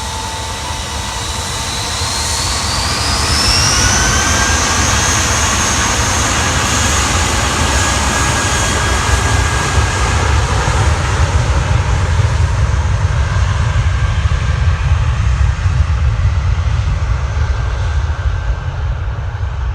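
Jet airliner's engines: a whine that rises in pitch over a couple of seconds, then holds steady over a deep, loud rumble.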